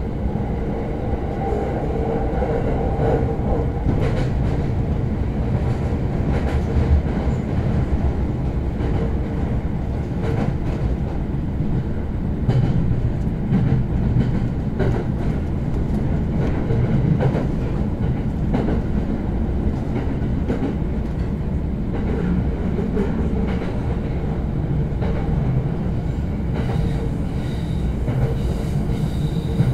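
Ride noise inside a JR East Shōnan–Shinjuku Line commuter train's Green Car as the train runs between stations: a steady low rumble of wheels on rail, with scattered clicks as the wheels pass over rail joints.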